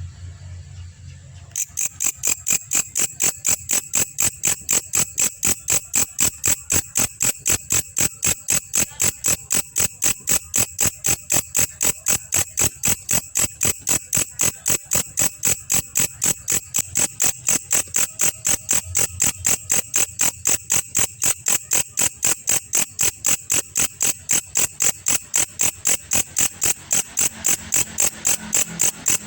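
Belalang kecek singing: a loud, even train of sharp, high-pitched chirps, about three a second, starting about a second and a half in.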